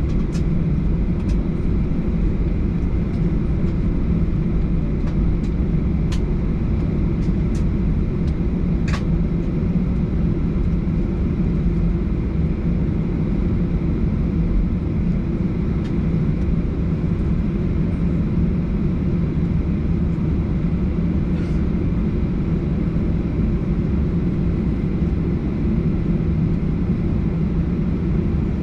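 Steady low rumble of a Boeing 737-800's jet engines at low power, heard from inside the passenger cabin, with a few faint clicks and knocks in the first third and one more a little past the middle.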